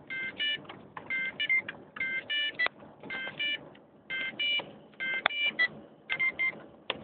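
Car dashboard warning chime sounding in repeated double beeps, about one pair a second, each beep a bright chord of several tones, with a few sharp clicks in between: the alert that goes with a 'check powertrain' engine warning.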